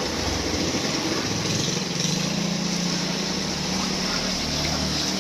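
Pressure washer motor running steadily, its pitch stepping up and down a few times, over the hiss of its water spray.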